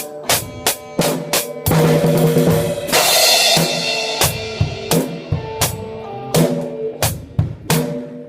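Drum kit playing in a band rehearsal: a steady beat of bass drum and snare hits about three a second, then a long crash cymbal wash about two seconds in, followed by sparser hits. Other instruments hold sustained pitched notes underneath.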